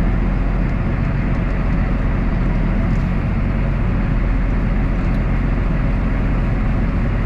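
Tractor engine running steadily under load, driving the grain cart's unloading auger through the PTO while corn is augered into a semi trailer.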